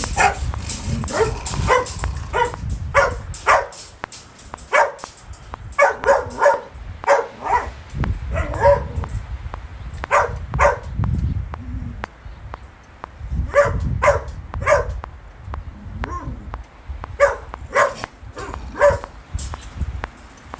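A dog barking repeatedly in short runs of a few quick barks with pauses between, over a low rumble of wind.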